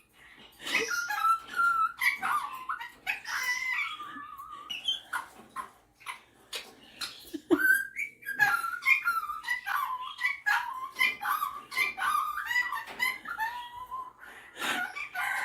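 Superb parrot (Barraband parakeet) singing and chattering in a near-continuous warbling stream of pitch-sliding notes mixed with short clicks: the bird's mimicking song.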